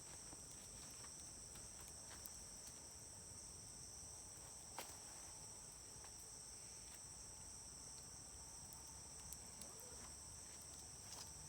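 Wood campfire crackling with sparse small pops, one sharper pop about five seconds in and a few more near the end, over a steady high-pitched chirring of insects.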